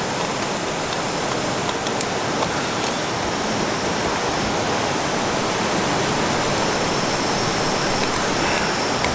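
Steady rushing of flowing river water, with a few faint ticks in the first couple of seconds.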